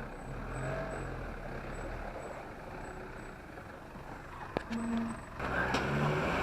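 Mitsubishi Shogun 4x4's engine running as it drives through a shallow river, with a sudden louder rush of water from about five seconds in.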